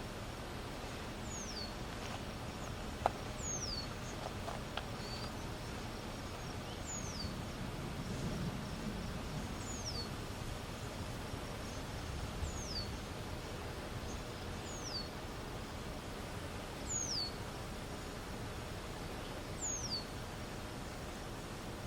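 A bird repeating a short, high whistled note that slides downward, roughly every two to three seconds, over a steady background hiss, with one sharp click about three seconds in.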